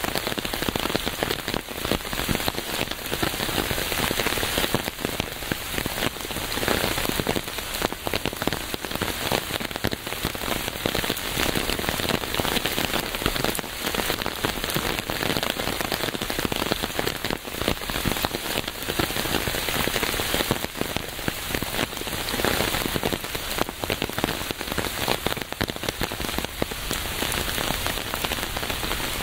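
Steady rain falling and pattering on a surface, a dense even hiss of many small drop impacts with no break.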